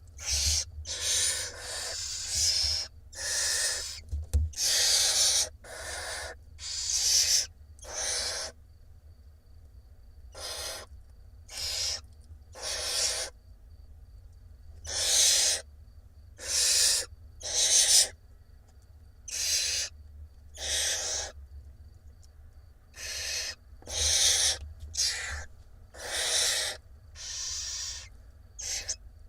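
Barn owl nestlings begging for food: a run of harsh hissing calls, each about half a second to a second long, repeated roughly once a second with brief pauses between.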